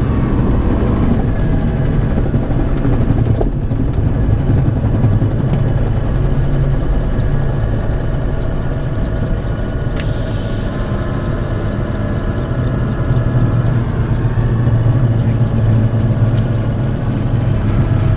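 AutoGyro Cavalon gyroplane's engine and rotor running with a steady low drone, with a sharp click about ten seconds in.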